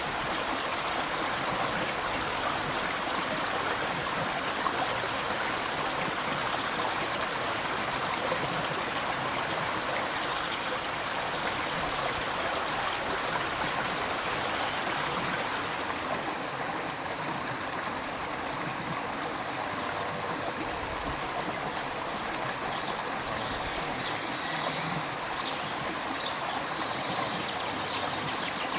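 River water flowing, a steady rushing that eases slightly a little past halfway.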